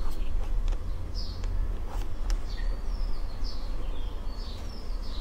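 Small birds chirping in short, repeated high calls over a steady low hum, with a few sharp clicks.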